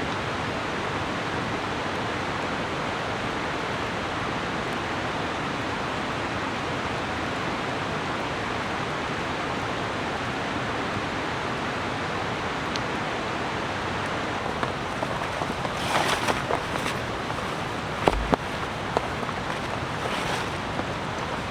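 Steady rain falling, an even hiss throughout. A few brief rustling bursts and small knocks come in the last few seconds.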